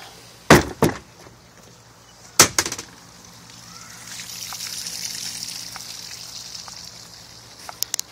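Johnson two-stroke outboard motor idling with a low steady hum while water trickles. A few loud knocks come in the first three seconds.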